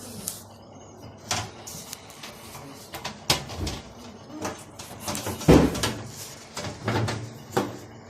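Knocks and clatter of an automatic washing machine's back panel being handled and fitted back into place: a string of irregular bumps, the loudest about five and a half seconds in.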